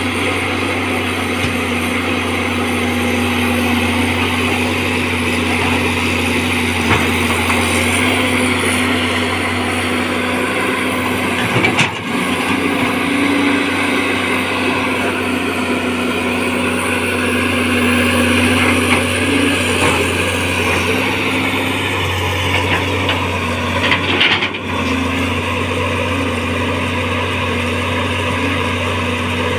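Caterpillar excavator's diesel engine running steadily under hydraulic load as the machine tries to work itself out of deep mud, with brief dips about twelve and twenty-four seconds in. The travel motor is too weak to drive the tracks out.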